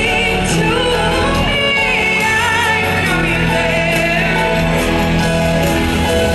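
Live pop ballad: a woman's lead vocal, sung with vibrato, over sustained instrumental accompaniment.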